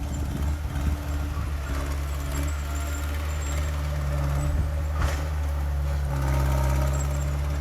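Heavy diesel engine of earthmoving machinery running steadily with a low drone. There is a short knock about five seconds in, and the engine grows a little louder near the end.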